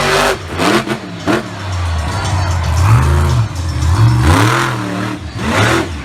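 Monster truck engine being revved hard in repeated blips, the pitch swooping up and falling back several times in quick succession.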